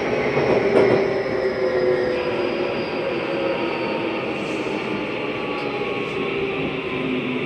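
Running sound inside a Tokyu 3020 series electric train slowing for a station stop: the traction motor whine falls slowly in pitch under braking, over steady wheel and rail noise.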